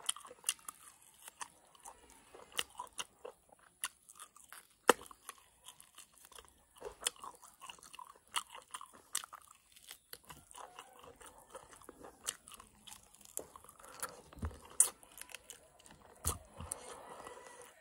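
Close-miked chewing and biting as a person eats mutton curry and rice by hand, with many irregular short mouth clicks and crunches.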